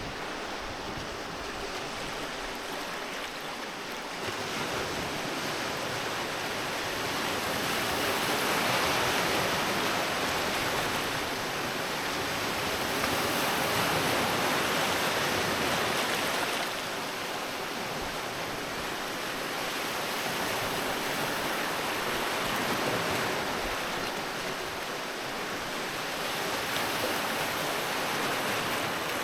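Sea waves breaking and washing on the shore, a steady surf noise that swells and eases every several seconds.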